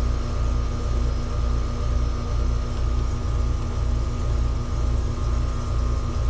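Trane two-stage heat pump outdoor unit running in first stage: a steady hum from the compressor and fan, with a low throb that pulses several times a second.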